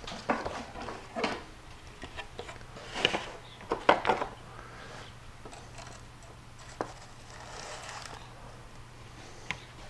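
Light handling noises: scattered soft rustles and a few sharp clicks as bags and dried chicken are handled, over a faint steady low hum.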